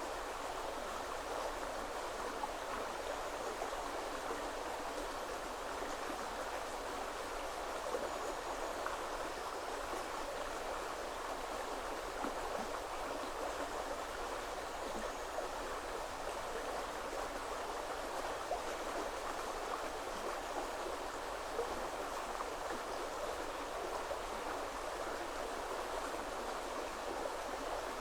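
Woodland river flowing, a steady, unbroken rush of running water.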